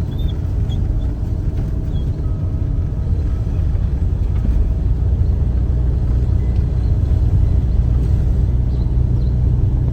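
Campervan driving, heard from inside the cabin: a steady low rumble of engine and road noise.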